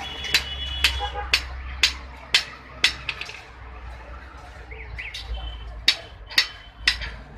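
Hand hammer striking hot iron on an anvil, about two blows a second, each with a short metallic ring. The blows pause for a couple of seconds about halfway through, then start again.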